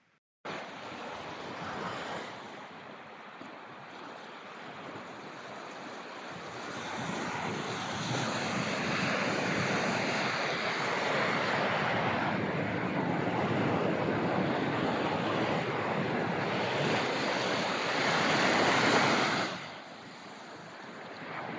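Ocean surf washing in, with wind on the microphone. The noise swells over several seconds, is loudest a little before the end, then falls away sharply and starts building again.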